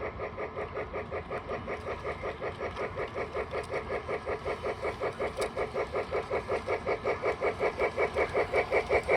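Model train running, a fast, even rhythm of about six beats a second that grows steadily louder as the train comes nearer.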